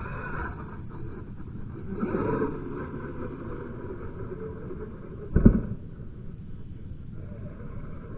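Arrma Mojave 6S RC truck running, its electric motor and drivetrain giving a steady whine that swells around two seconds in, with one sharp thump about five and a half seconds in, like the truck landing hard. The owner blames the rough drivetrain sound on a poor pinion gear.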